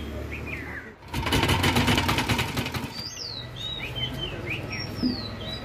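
Birds chirping with short, quick downward-gliding calls, after a loud burst of rapid fluttering rattle about a second in that lasts a couple of seconds.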